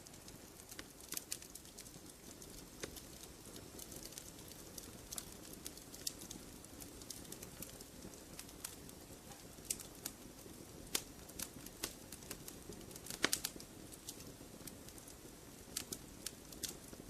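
Wood campfire crackling: irregular sharp snaps and pops over a soft low hiss, with a quick cluster of louder pops about thirteen seconds in.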